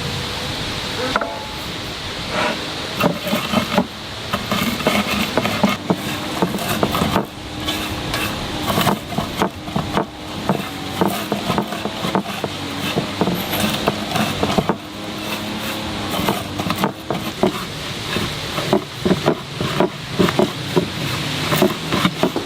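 Kitchen utensils clicking, knocking and scraping against cookware at an irregular pace, over a steady low hum.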